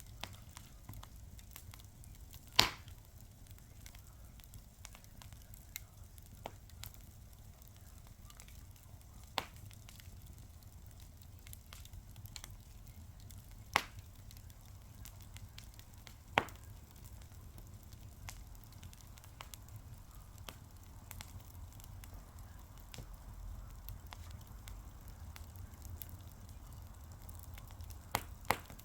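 Wood fire crackling, with a low steady rumble, frequent small crackles and a handful of sharp, louder pops scattered through.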